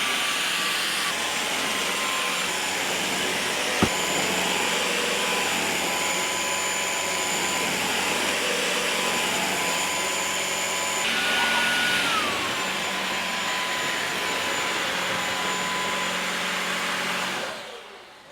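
Vacuum cleaner running steadily, a dense rushing noise with a thin motor whine that drops in pitch about twelve seconds in. There is a sharp knock about four seconds in, and the sound dies away near the end.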